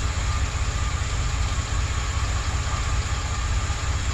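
2008 Express van's engine idling steadily: a low, even rumble.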